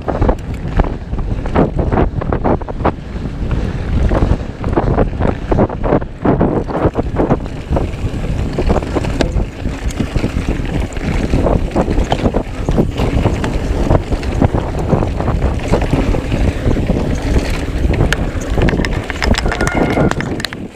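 Wind buffeting the microphone while riding a mountain bike, with frequent knocks and rattles from the bike over rough trail.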